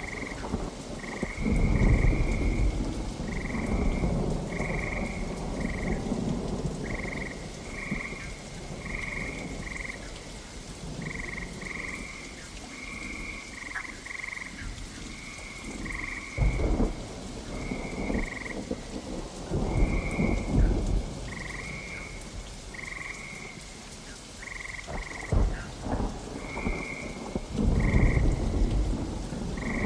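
Steady rain with thunder rumbling several times, over a short high-pitched call that repeats about once or twice a second, frog-like croaking.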